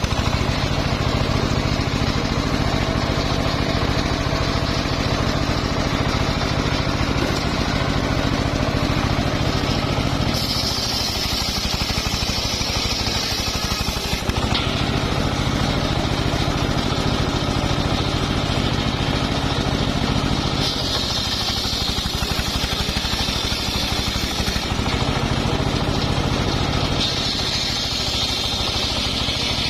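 Engine-driven homemade circular sawmill running steadily while sawing mahogany logs. A higher-pitched cutting noise rises over the engine three times, for a few seconds each.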